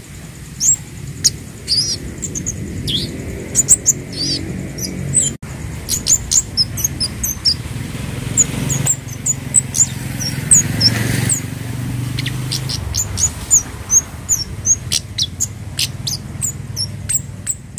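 Scarlet-headed flowerpecker (kemade, burung cabe Jawa) calling: rapid, sharp, high-pitched chips and short slurred notes, several a second. A low steady rumble runs underneath.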